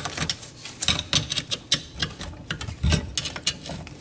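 Metal flathead screwdriver tips clicking and scraping irregularly against the teeth of a locked-up dishwasher motor as they are worked to turn it loose.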